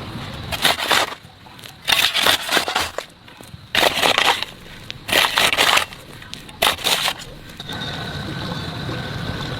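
Five bursts of crackling, rustling noise, like plant material or something brittle being crushed or handled, about a second and a half apart. After them comes a steadier background sound with a faint high hum.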